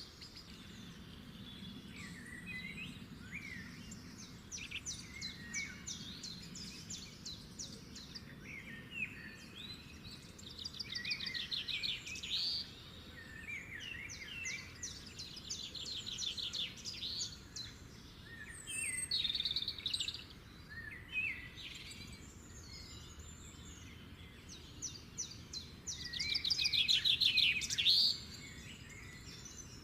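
Songbirds singing: repeated phrases of fast high trills mixed with short chirps every few seconds, the loudest bursts about two-thirds of the way in and near the end, over a faint steady background hum.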